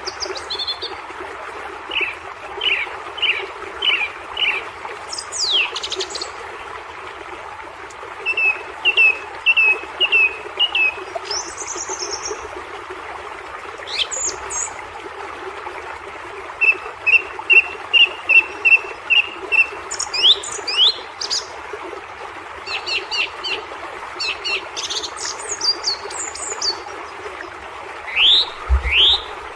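Songbirds singing: short chirps, quick rising and falling whistles, and fast runs of repeated notes, over a steady rushing noise of falling water.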